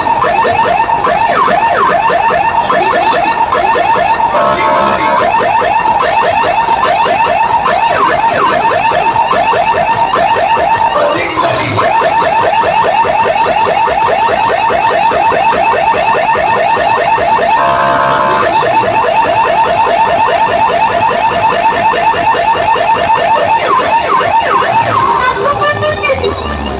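Electronic siren- or alarm-style warbling tone blasted very loud through a large DJ loudspeaker system, repeating in fast, even chirps, with short shifts in the pattern twice along the way.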